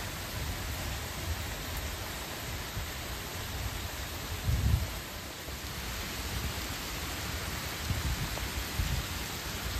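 Rain falling steadily during a thunderstorm, an even hiss, with low rumbles coming and going underneath and one brief louder rumble about halfway through.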